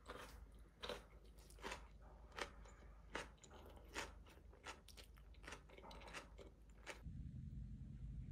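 Someone chewing crunchy food: a crisp crunch with each bite about every three-quarters of a second. It stops abruptly about seven seconds in, and a steady low hum takes over.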